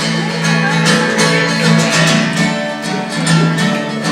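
Acoustic guitar strummed in a steady rhythm between sung lines of a song.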